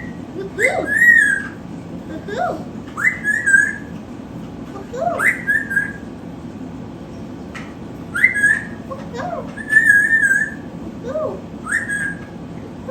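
A pet bird whistling: short whistled phrases, each a quick upward swoop into a briefly held note, repeated every second or two with a few pauses.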